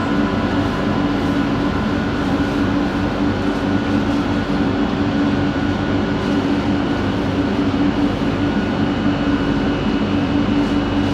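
Bombardier Innovia ART 200 metro train running at a steady pace, heard from inside the car: an even rumble with a steady hum of several tones from its linear-induction-motor drive.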